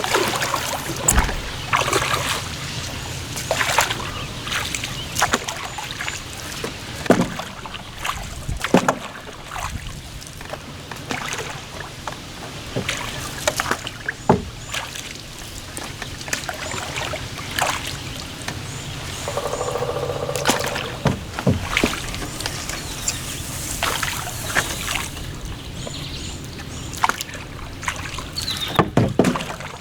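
Kayak being paddled through water: paddle strokes and water dripping and splashing, with scattered sharp knocks.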